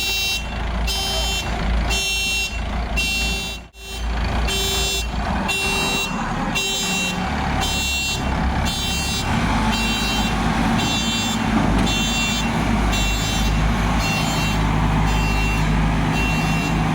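A vehicle reversing alarm beeps steadily about twice a second over a diesel engine running under load. The sound cuts out briefly about four seconds in. Later the engine note rises and grows louder.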